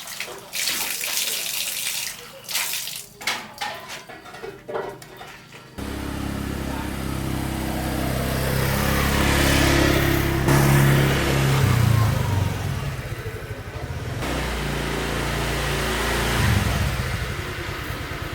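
Water splashing in bursts for the first few seconds, then an engine starts running steadily, growing louder towards the middle.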